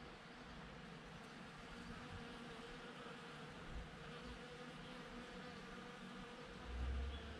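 Honeybees buzzing steadily while foraging at cherry blossoms, a hum held at an even pitch. A brief low rumble near the end.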